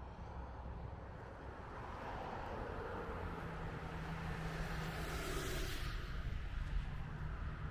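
A car passing on a city street: tyre noise swells to a peak about five to six seconds in, with a falling pitch as it goes by, over a steady low traffic rumble.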